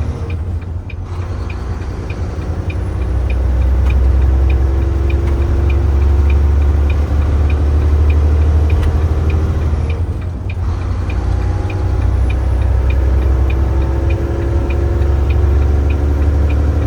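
Tractor-trailer's diesel engine accelerating hard through the gears, dropping off briefly for a gear shift about a second in and again about ten seconds in, then building back up with a rising whine. The turn signal ticks steadily, about two to three ticks a second.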